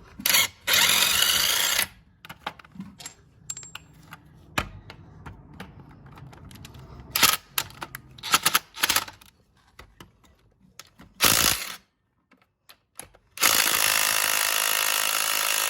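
Impact wrench hammering on a 17 mm bolt in two bursts, about a second long near the start and about three seconds long near the end, without breaking it loose, so the bolt is left for a breaker bar. Short metal clinks and knocks of sockets and tools come between the bursts.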